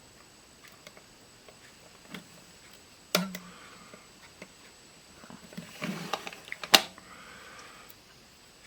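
Small sharp clicks and taps of plastic and tweezers as an 8-track cartridge is handled to fit a new pressure pad. There is a distinct click about 3 seconds in, a few softer ones around 6 seconds, and the loudest click just before 7 seconds.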